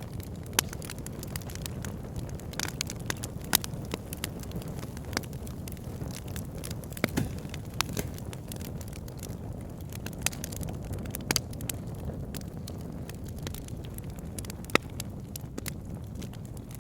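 Wood fire crackling in a fireplace: irregular sharp snaps and pops from the burning logs over a steady low rumble of flame.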